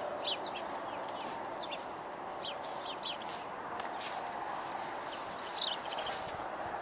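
Small birds chirping, many short, quick calls scattered throughout, over a steady background hiss.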